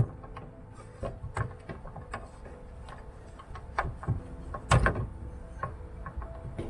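Scattered clicks and knocks of hand-handled parts and fittings, irregular, with the loudest knock about three-quarters of the way through.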